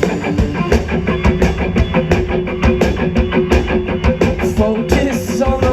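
Live rock band playing the instrumental intro of a song: distorted electric guitars over a driving drum kit and bass, loud through the festival PA.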